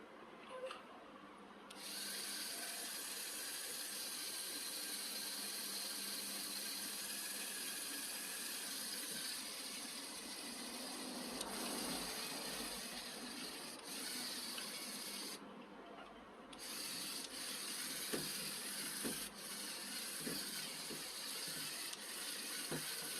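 A steady hiss that starts about two seconds in, stops briefly in the second half and then resumes, with scattered clicks and knocks.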